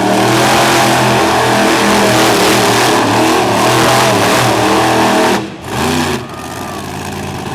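Monster truck engine running hard at high revs, then cut off sharply about five and a half seconds in, blipped once, and left running at a lower, steadier level.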